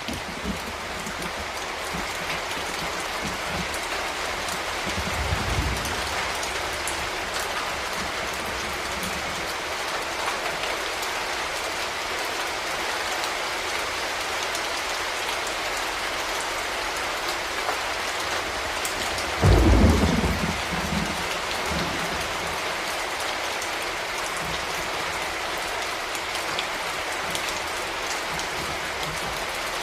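Steady heavy rain falling on a surface, with a low rumble of thunder about five seconds in and a louder, sudden thunderclap rumbling for a couple of seconds just before two-thirds of the way through.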